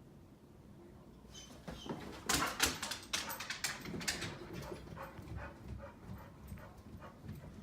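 A pit bull moving about, with a run of scratchy rustles and clicks starting about two seconds in and tapering off.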